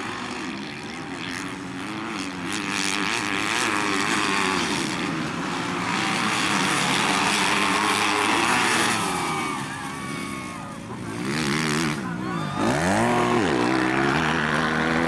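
Several 250 cc grasstrack racing motorcycle engines revving hard, their pitch rising and falling as the bikes accelerate, shift and brake. The engine note drops briefly a little past ten seconds in, then a bike revs up sharply.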